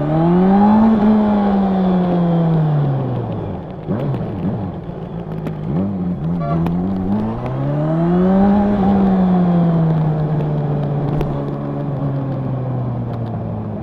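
Honda CB1000R's inline-four engine and exhaust under way, revving up and rolling off twice, its pitch climbing then falling each time, then holding a steady note.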